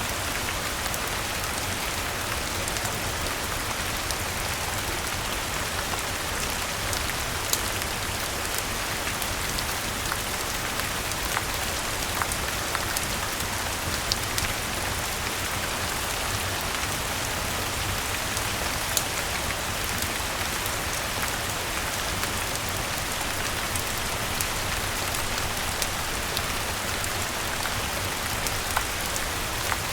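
Steady rain falling, an even hiss with a low rumble beneath, and scattered sharp ticks from individual drops.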